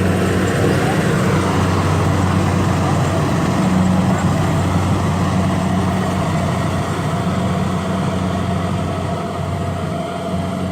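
A heavy engine running steadily with a constant low hum and dense mechanical noise, easing slightly in level in the second half.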